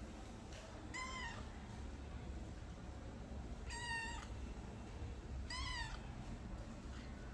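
Domestic cat meowing three times, short calls about two seconds apart.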